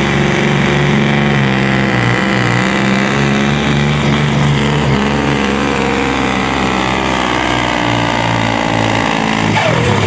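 Supersport pulling truck's engine running flat out under load as it drags the weight sled, a steady heavy note with a thin high whistle above it. Near the end the engine note falls away quickly as it comes off the throttle.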